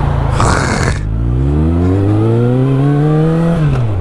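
Suzuki GSX650F's inline-four engine pulling away, its pitch climbing steadily, then dropping sharply near the end as it shifts up a gear and starts to climb again. A short hiss comes about half a second in, before the engine climbs.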